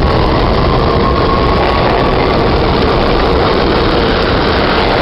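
New York City subway train running through the tunnel, heard from inside the car: a loud, steady rumble with a faint, steady whine.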